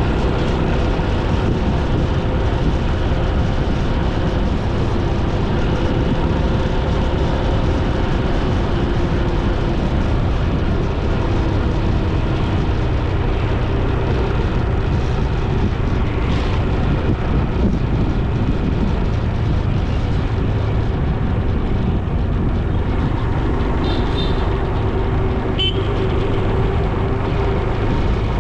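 Steady road noise from a moving motorcycle: wind rush and tyre noise on the microphone over the engine's even hum. A short, high horn beep sounds a few seconds before the end.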